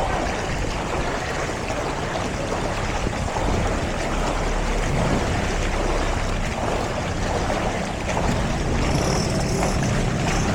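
A motor running steadily under a constant rush of water and wind noise, its low hum growing firmer about halfway through.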